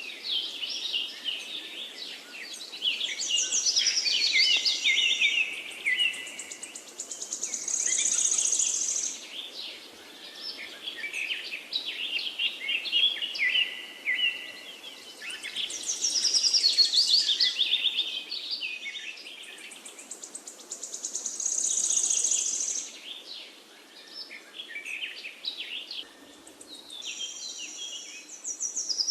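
Songbirds singing: rapid chirps and trills in overlapping phrases, with a high, fast trill coming back every several seconds, over a faint steady background hiss.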